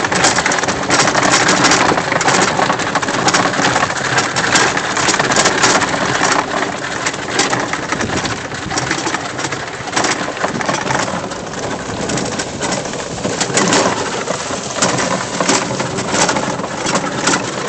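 EZGo golf cart driving over a rough trail, with loose tools, golf balls and other gear rattling and bouncing around in the cart. It is a continuous clatter of many sharp rattles, and the speaker calls it definitely noisy.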